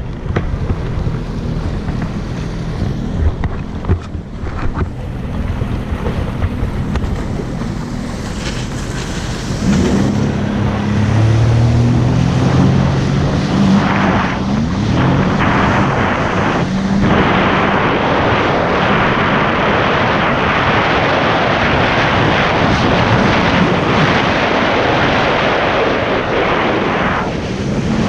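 Jet ski engine running over water, with wind buffeting the microphone and water rushing. About ten seconds in, the engine pitch rises as it speeds up, and the sound stays louder at speed after that.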